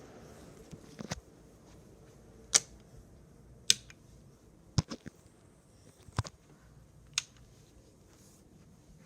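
A series of sharp clicks, about seven over several seconds at uneven intervals, over a faint steady background.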